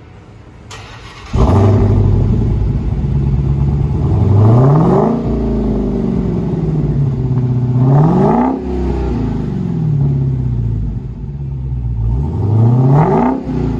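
2020 Dodge Challenger's supercharged 6.2-litre Hemi V8 on its stock four-muffler exhaust, cranking briefly and catching with a sudden loud start about a second in, then settling to idle. It is revved three times, each rev rising in pitch and falling back to idle.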